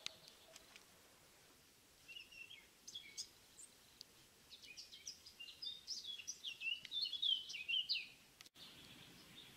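A songbird singing outdoors: a run of quick, varied high chirps and whistles that starts about two seconds in, grows busier and louder, and stops at about eight and a half seconds.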